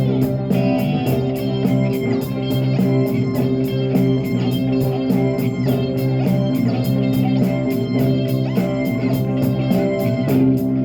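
Live rock band playing an instrumental stretch without vocals: guitar-led, with bass under a steady beat.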